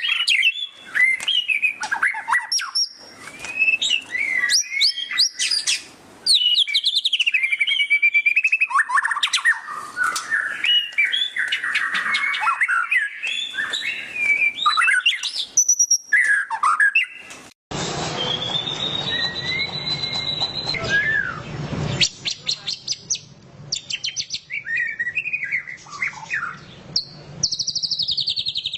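White-rumped shama singing loudly: a fast run of varied whistles, chips and chattering trills in its 'ngeriwik' style. About two-thirds of the way through there is a sudden splice to a duller recording with a background hum, where the bird holds a long whistle before its chatter resumes.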